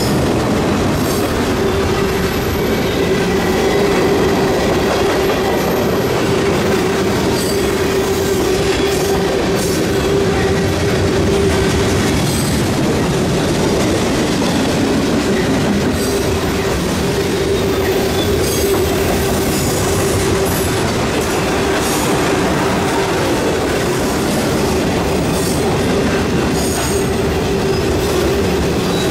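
Freight cars of a long mixed freight train, tank cars and boxcars, rolling past with wheels clattering over the rails and squealing now and then. Under it a grade-crossing mechanical bell, a Western Cullen Hayes, keeps ringing in a steady tone.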